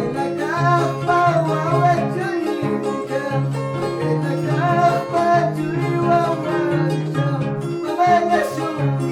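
Andean harp playing, plucked low bass notes repeating under a melody.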